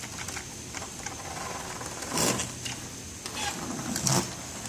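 HO-scale model locomotive's small electric motor whirring steadily while the engine is stuck on something on the track, with two louder clatters, about two seconds in and near the end.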